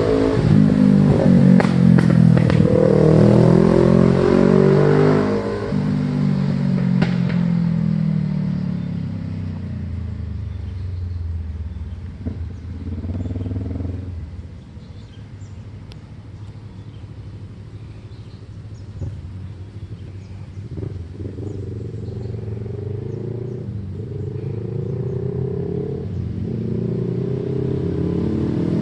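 Kawasaki ER-6n parallel-twin engine revving hard as the motorcycle accelerates past, its pitch climbing and dropping with each gear change in the first few seconds. The exhaust note then fades as the bike rides away and grows louder again as it comes back near the end.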